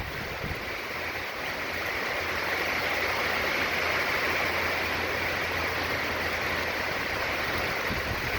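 Heavy hurricane rain pouring steadily with the storm's wind, swelling a little about two seconds in.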